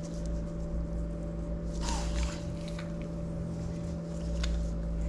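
Steady electrical hum of equipment in the examination room, with one short snort from the dog about two seconds in.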